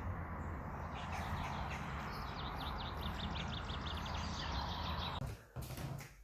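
A small bird singing a quick series of high chirps, about seven a second, over a steady outdoor rush of background noise that cuts off suddenly near the end.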